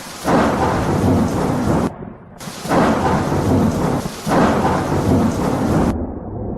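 Thunder rolling over rain in two long peals. The first starts just after the beginning and stops abruptly about two seconds in. The second lasts about three and a half seconds with two swells, then cuts off suddenly, leaving quieter, duller rain.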